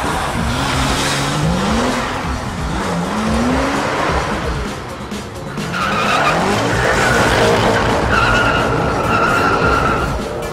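Sports car accelerating hard, its engine pitch rising again and again through the gears, with tyre squeal in the second half. Background music plays.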